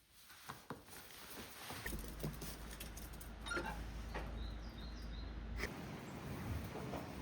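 Irregular footsteps crunching and pattering on the forest floor, with a low rumble for a few seconds in the middle and a few faint high bird chirps.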